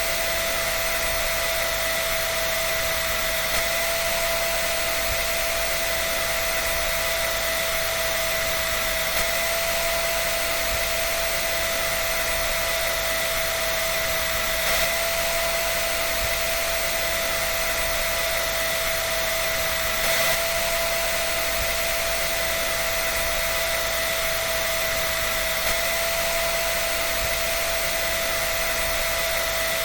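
Hair dryer running steadily: constant blowing air with an unchanging high motor whine.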